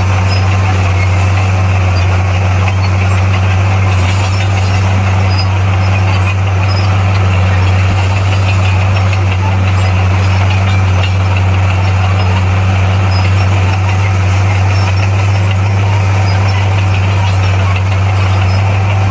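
Bulldozer's diesel engine running steadily, a constant low drone that neither rises nor falls.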